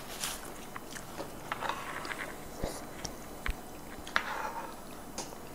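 Close-miked eating sounds: chewing and small wet mouth clicks, with scattered short taps of cutlery on a plate.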